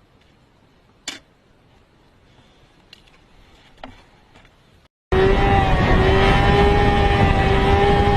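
A quiet stretch with a sharp click and a few faint ticks, then, after a cut about five seconds in, a loud vehicle engine running at a steady pitch over heavy road and wind noise.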